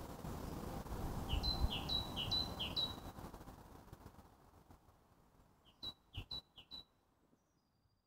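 A small songbird repeating a high two-note phrase, a lower note then a higher one, about twice a second, in two runs of four. A steady outdoor background hiss fades out about halfway through.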